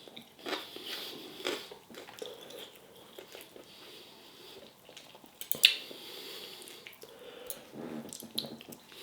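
A person chewing a mouthful of baked potato and chilli con carne, with soft wet crackly mouth sounds and a sharp click about five and a half seconds in.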